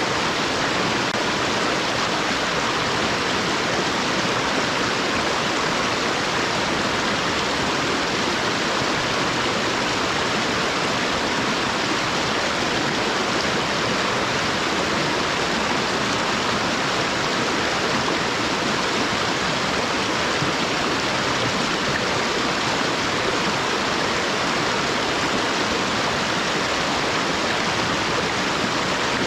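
Mountain stream flowing steadily, a continuous even rush of water with no breaks or changes.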